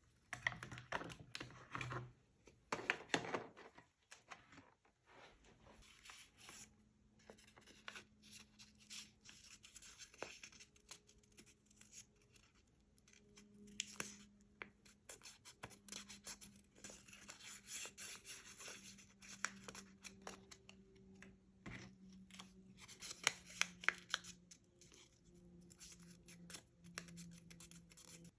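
Paper being worked by hand: scratchy rustling, scraping and snipping strokes with many small clicks, loudest in the first few seconds and again near the end.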